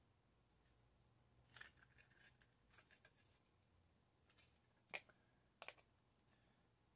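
Faint, scattered small clicks and snips from hands and a small tool working a microwave's circuit board. A few sharper clicks come about five seconds in.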